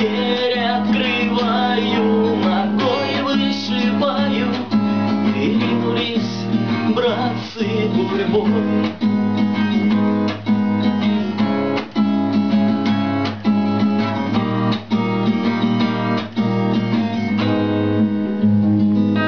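Acoustic guitar strummed in a steady rhythm as the outro of a song. A voice sings along without clear words during the first several seconds.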